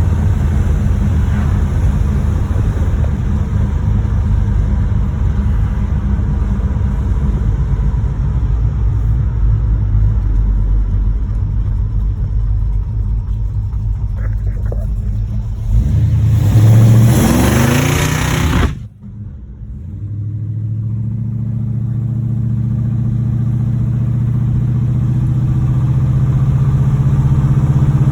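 1986 Monte Carlo SS's V8 engine running as the car drives; the engine has a knocking bottom end from a failing rod bearing. A little over halfway through it revs up hard with rising pitch, then the sound cuts off abruptly and returns as a steady engine drone that slowly grows louder.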